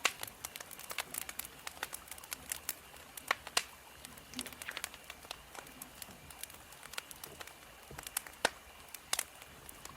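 Wood fire crackling: irregular sharp pops and snaps, several a second, over a soft hiss of burning logs.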